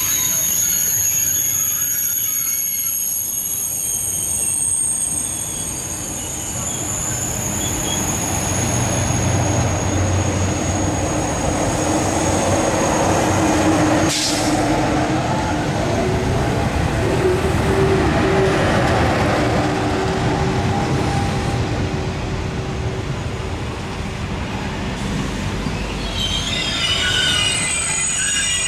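Train moving through a station, its wheels squealing on the rails. The high squeal fades after a few seconds, gives way to the rumble of the train running, and returns near the end, with one sharp crack about midway.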